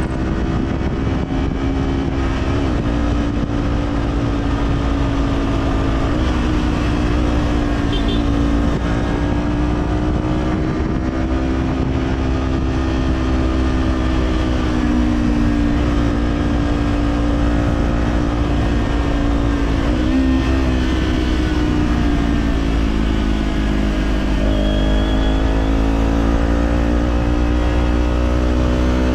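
Kawasaki Z400's parallel-twin engine through an Orion Katya slip-on exhaust, running on the road at cruising revs. The pitch dips and rises several times with the throttle, and steps up sharply about 24 seconds in.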